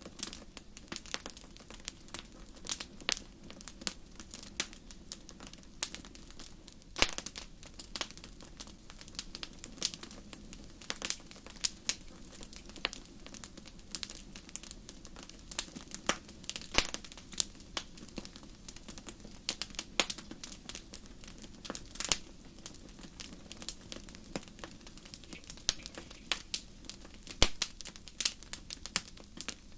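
Campfire wood burning and crackling, with irregular sharp pops and snaps over a soft steady hiss.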